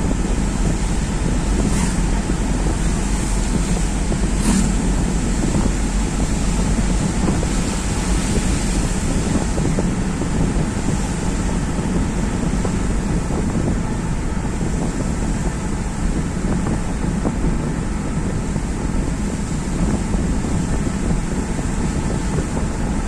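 Steady wind noise on the microphone and road noise from a vehicle moving along a highway, with two faint clicks a few seconds apart near the start.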